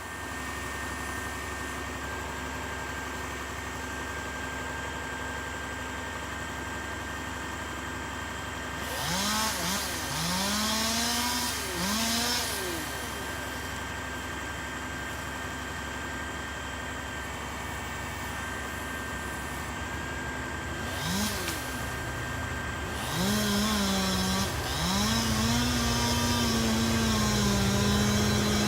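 Two-stroke chainsaw revving up and down in short bursts, then held at high speed near the end, over the steady low drone of a larger engine running.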